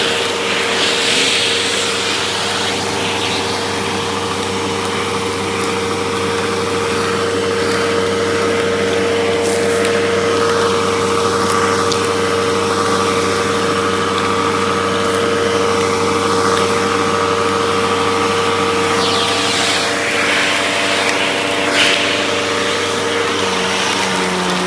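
Hoover vacuum cleaner running steadily, its motor giving a constant hum, with a higher tone joining about ten seconds in and a couple of short clicks.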